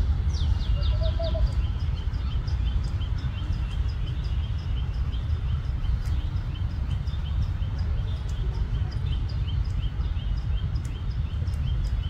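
Birds chirping: a run of short, high chirps, each dropping in pitch, with a few louder ones at the start and then repeating about two to three times a second. Under them is a steady low rumble.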